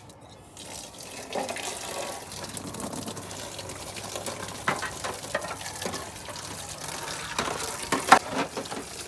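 Water running from a tap, filling or splashing into a sink or container, with a few knocks and clatters as things are handled, the loudest near the end.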